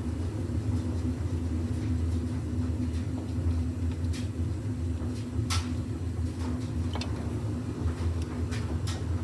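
Steady low hum with a few sharp, scattered metallic clicks from a socket and extension working on oil pan bolts.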